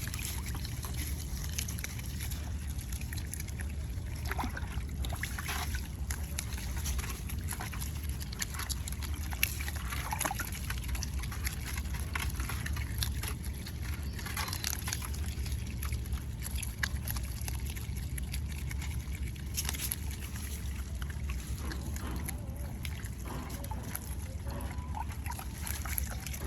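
Otters splashing in water: sloshing and trickling with scattered small splashes, over a steady low rumble.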